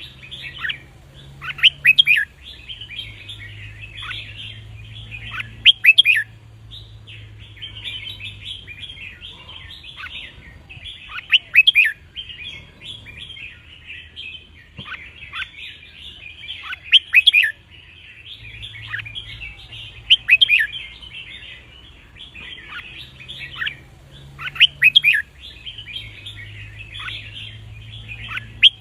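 Red-whiskered bulbuls singing: a loud, short song phrase comes about every four to six seconds over continuous twittering chirps from the flock.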